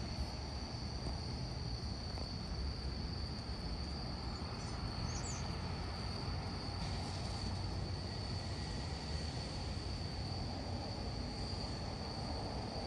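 LIRR M7 electric train moving off, a low steady rumble, with night insects trilling steadily at one high pitch over it.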